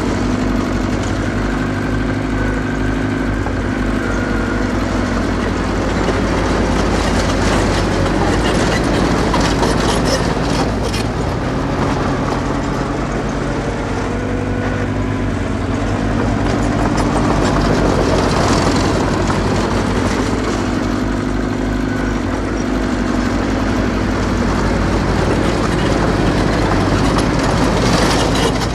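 A small bulldozer's diesel engine running under changing load, its pitch rising and falling several times, with the metal tracks clanking and rattling.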